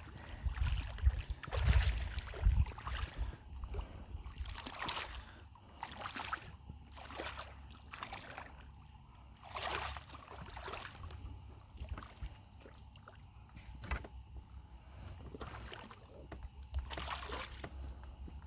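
Water splashing in short spells beside a small boat as a hooked catfish is fought to the surface. A few low thumps on the boat come about one to three seconds in, over a faint steady low hum.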